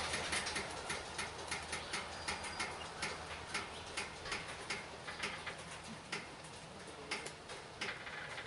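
Slow-moving loaded coal train's freight car wheels clicking and knocking irregularly, about two or three sharp clicks a second that grow fainter, over a low diesel locomotive rumble.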